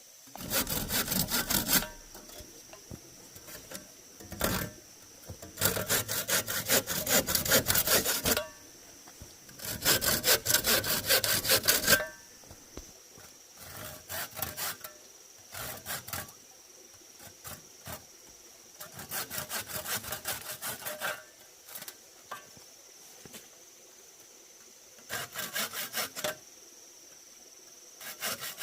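Hand saw cutting wood in several bouts of quick back-and-forth strokes, with pauses between them. A steady high insect drone carries on underneath.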